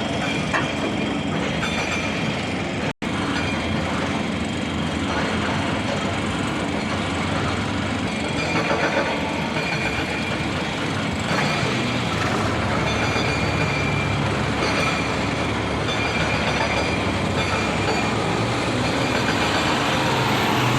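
Heavy truck running, a steady loud mechanical drone that cuts out for an instant about three seconds in.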